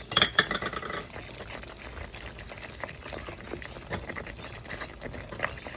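Thick curry sauce simmering in a pan on low heat, with small bubbling pops throughout. A few knocks of a utensil against the pan come in the first second.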